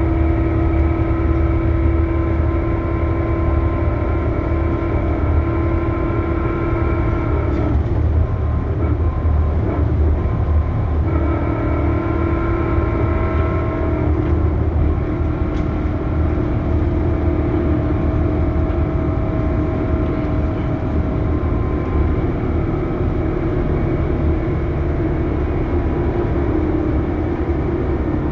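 Scania K280UB three-axle bus with a ZF Ecomat automatic gearbox driving, a low rumble under a loud, steady, multi-tone whine, the horrible sound the bus is known for. The whine fades for about three seconds roughly a third of the way in, then comes back.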